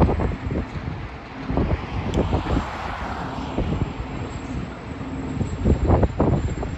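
A fire engine going past, its engine and tyre noise swelling and fading, with heavy wind buffeting on the microphone.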